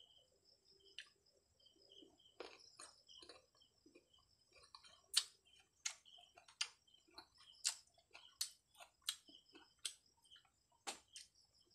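Close-mouthed chewing of crisp unripe Indian mango slices: quiet mouth sounds, then a run of sharp crunches, about one a second, from about five seconds in.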